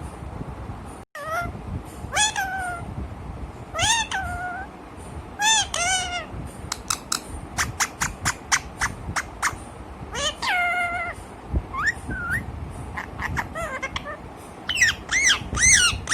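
Pet parrot calling: a series of meow-like rising-and-falling calls, then quick clicks and short whistles, ending in a fast run of loud squawks.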